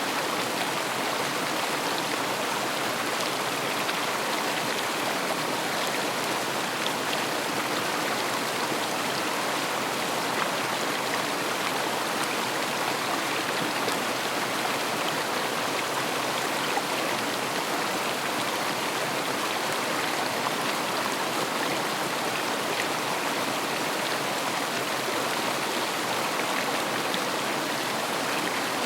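River water running steadily over stones, a constant rushing.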